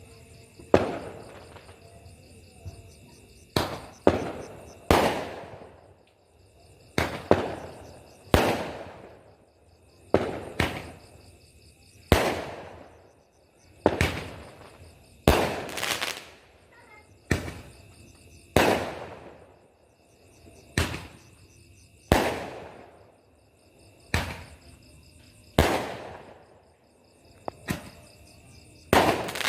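Fireworks going off one after another: sharp bangs every second or two, about twenty in all, each trailing off in an echo.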